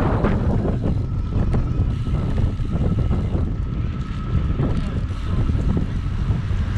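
Wind buffeting the microphone over the steady rumble of a bicycle riding along a city street, with a thin steady whine running through most of it.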